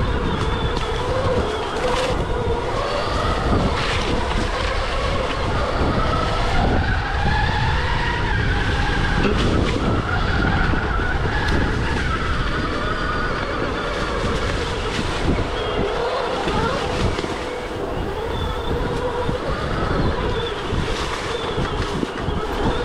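Stark Varg EX electric dirt bike being ridden off-road: the electric motor's whine rises and falls in pitch with speed over a continuous rumble and clatter from the bike and the rough ground.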